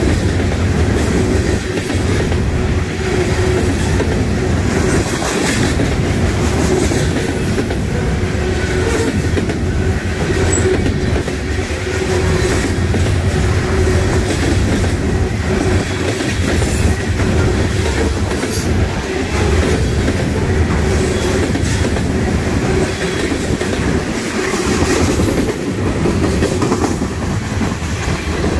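Freight cars rolling past at close range: steady wheel noise on the rails with clickety-clack over the rail joints.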